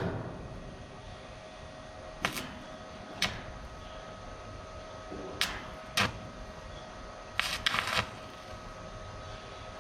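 A few separate sharp clicks or knocks, with a short quick cluster of them a little before the end, over a faint steady hum.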